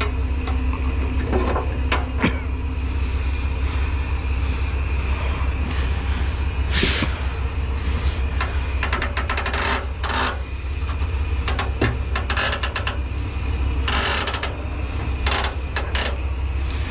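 A heavy truck's diesel engine idling with a steady low hum, under scattered sharp clicks and clanks, several of them coming in quick clusters in the second half.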